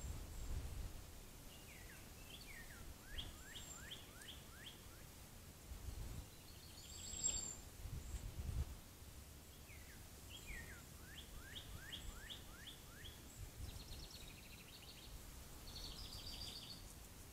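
A songbird singing twice, each phrase a run of about eight quick down-slurred whistled notes, with a sharp high chirp about seven seconds in and other faint buzzy bird calls near the end, over faint low rumbles.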